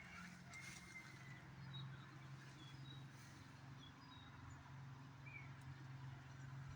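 Faint outdoor ambience: small birds giving short, high chirps here and there over a low steady hum.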